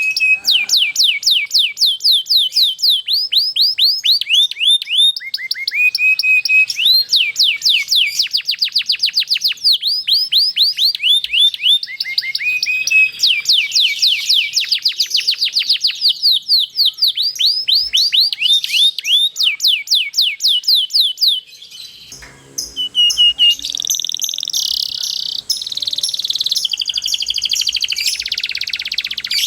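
Domestic canary singing long rolled trills: rapid runs of many repeated sweeping high notes, changing to shorter, tighter phrases after a brief pause about three-quarters of the way through.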